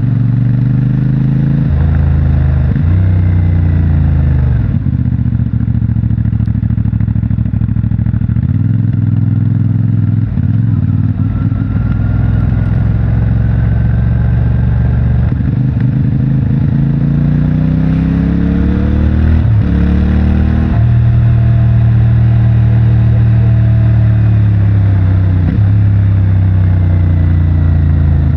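CFMOTO 450MT's 449 cc parallel-twin engine through its stock exhaust, under way. The revs rise and fall as the rider works the throttle, with several sudden drops in pitch at gear changes.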